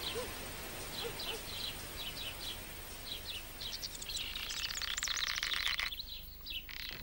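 Small birds chirping in short, repeated high calls, thickening into a dense stretch of chirping about four seconds in and dropping away near the end.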